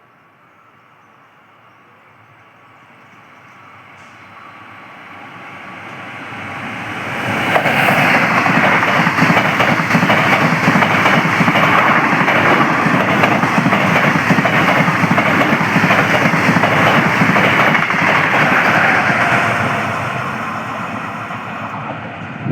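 Train approaching and passing through a station at speed: the rumble and wheel-on-rail noise swell over about seven seconds, stay loud for about eleven seconds, then begin to fade.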